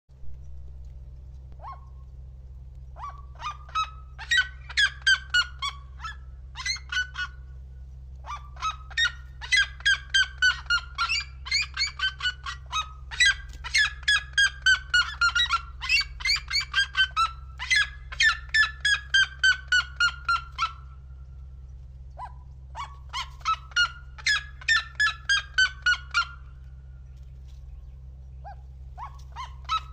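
Red-legged seriema calling: loud bouts of rapid yelping notes that climb in pitch and then ease down again, repeated several times with short pauses between. A steady low hum runs underneath.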